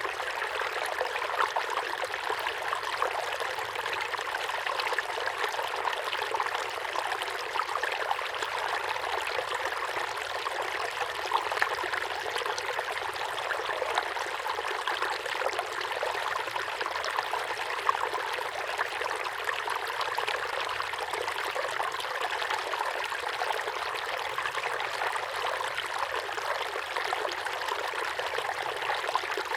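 Small waterfall pouring into a pond: a steady splashing and trickling of falling water with no let-up.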